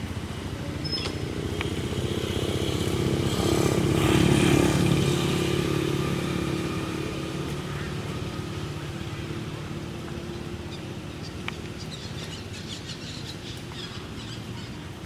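A motor vehicle engine passing by, growing louder to a peak about four seconds in and then slowly fading away.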